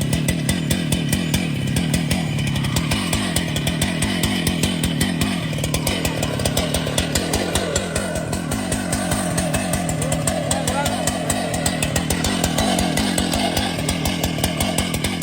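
Chainsaw engine running steadily at high speed, as when cutting into a tree trunk.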